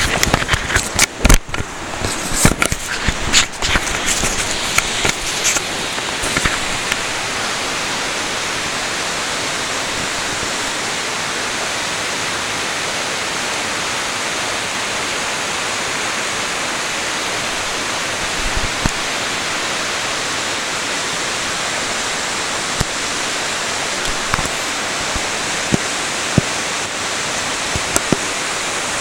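Mountain-stream waterfall rushing steadily, a loud even roar of falling water close by. Sharp clicks and knocks sound over it during the first several seconds, with a few single ticks later on.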